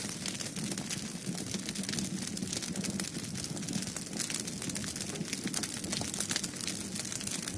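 Wood fire in a fireplace crackling, with irregular sharp pops and snaps over a low, steady rumble of flame.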